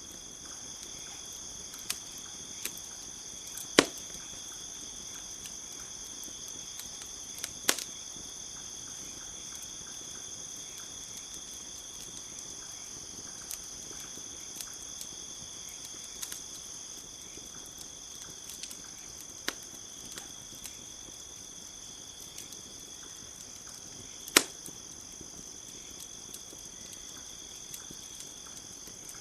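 Campfire crackling, with sharp pops scattered through and three louder ones about 4, 8 and 24 seconds in, over a steady high insect chorus.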